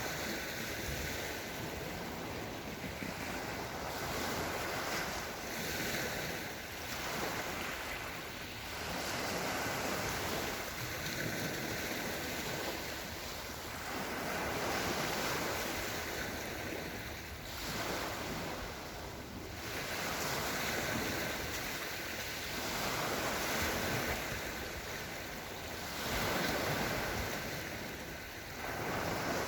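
Small Black Sea waves rolling gently onto the shore, the wash swelling and fading every two to three seconds.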